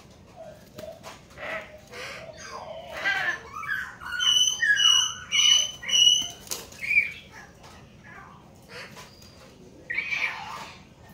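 Hill mynas calling: a run of varied gurgling, gliding calls, then about four seconds in four clear ringing whistles in a row, and a harsh squawk about ten seconds in.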